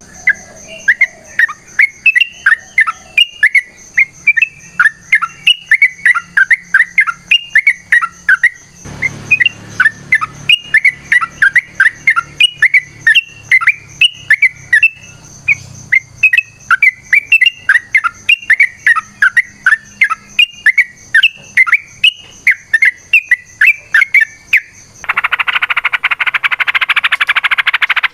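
Yellow-vented bulbul (trucukan) singing in long runs of loud, rapid, short chirping notes, several a second, over a steady high-pitched whine. About three seconds before the end the chirping gives way to a dense, harsh rasp.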